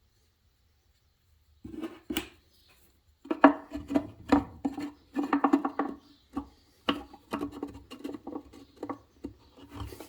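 Small handling noises from gluing a 3/4 inch wooden bracing strip: a dense, irregular run of clicks, taps and scrapes that starts about one and a half seconds in, as the glue is applied and the strip is handled.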